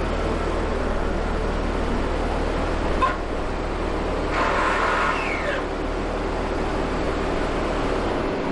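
A car's engine running low and steady as the car pulls in and parks. There is a sharp click about three seconds in, and a brief higher sound falling in pitch around five seconds. The low hum stops shortly before the end.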